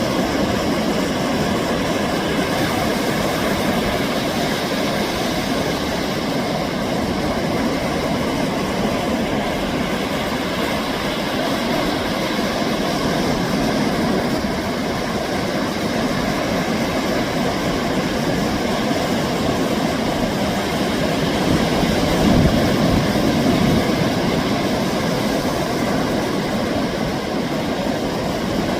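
Ocean surf breaking and washing on a sandy beach: a steady roar of waves that swells with a louder break about 22 seconds in.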